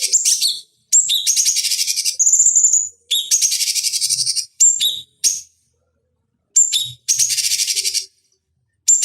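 Cucak cungkok singing loud, rapid, buzzy trilled phrases with clear high whistled notes. Each phrase lasts up to about a second, with short pauses between them and a longer pause in the middle.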